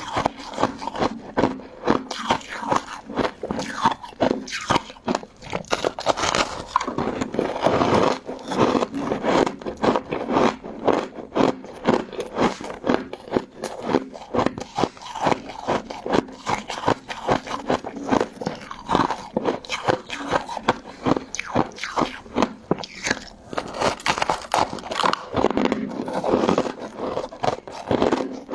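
Close-miked crunching and chewing of crystal ice and jelly: a continuous, irregular run of sharp crisp crunches, several a second.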